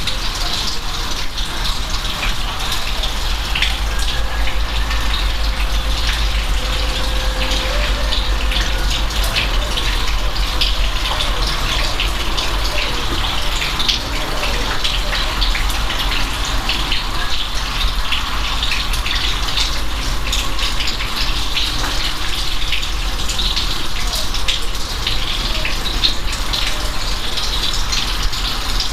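Steady rain, an even hiss of water thick with many small individual drop ticks, over a constant low rumble.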